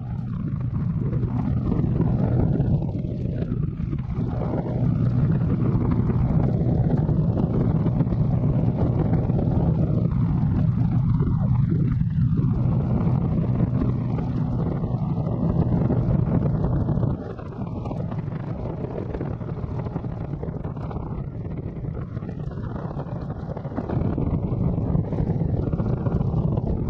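Motorcycle riding at road speed, wind rushing over the microphone on top of the engine's steady drone. The sound drops in level about seventeen seconds in and comes back up near the end.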